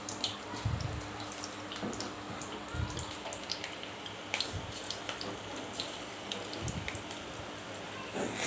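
Onion pakodi batter deep-frying in hot sunflower oil: a steady sizzle with scattered pops and crackles, a few soft knocks, and a brief louder burst near the end.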